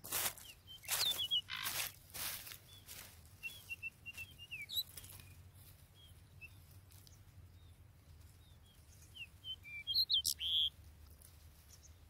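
Footsteps rustling through dry grass for the first few seconds, then a small bird chirping in short, high notes, with a louder flurry of chirps and fluttering about ten seconds in.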